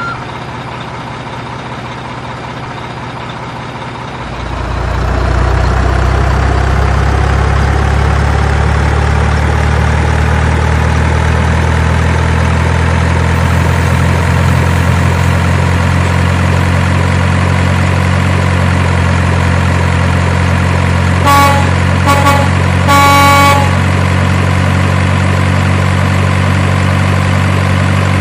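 Truck engine sound running steadily, growing louder about four seconds in and then holding even. About three quarters of the way through, the truck horn gives a few short toots and then a longer one.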